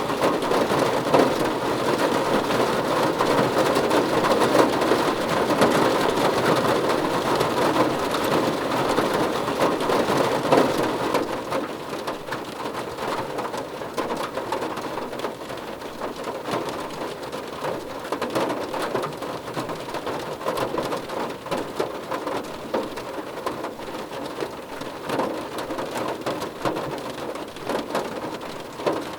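Rain pattering on a car roof, a dense wash of many individual drop ticks. It falls heavier at first and eases to a lighter, steady rain about eleven seconds in.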